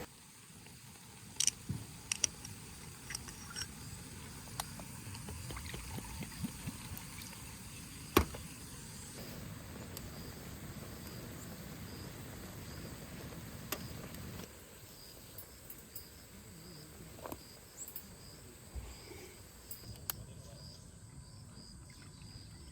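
Crickets chirping in a steady, even rhythm over a faint outdoor hiss, with a few sharp clicks scattered through it; the loudest click comes about eight seconds in.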